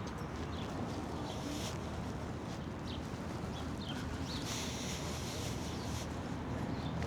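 Outdoor ambience: a steady background rush with short, high bird chirps scattered through it.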